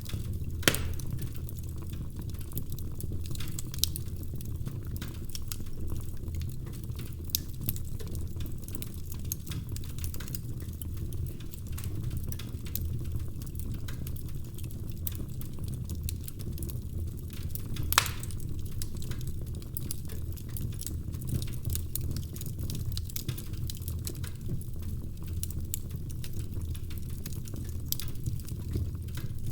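Wood fire burning in a fireplace: logs crackling with many irregular sharp pops over a steady low rumble, with a louder pop just after the start and another about two-thirds of the way through.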